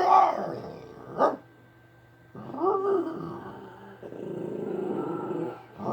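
A man imitating dog noises in the manner of Scooby-Doo: three bouts of growly, dog-like vocal sounds that bend up and down in pitch, with a sharp click about a second in.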